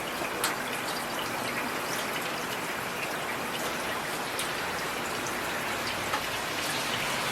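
Heavy rain falling steadily, a dense hiss with individual drops ticking sharply on a surface close by, one louder drop about half a second in.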